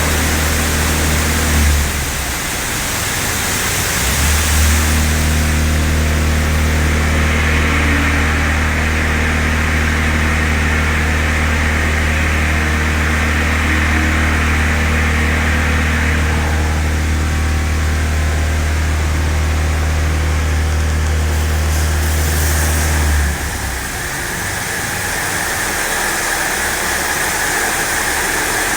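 Touchless car wash machinery running: a steady low motor hum that cuts out about two seconds in, starts again about two seconds later and stops abruptly near the end, over a continuous hiss of water spray.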